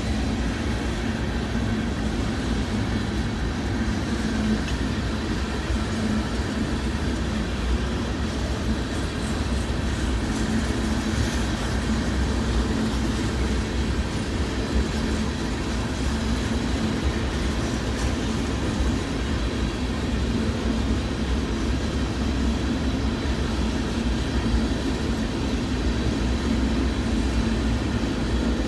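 Train passing, a steady, unbroken rumble of railroad cars rolling on the rails.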